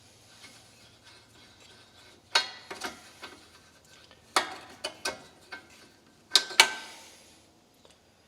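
Metal clanks and clinks from hand tools and engine parts being knocked and set down during a fuel-line repair. There are about nine sharp knocks, each with a short metallic ring, starting about two seconds in. The loudest are a pair near the end.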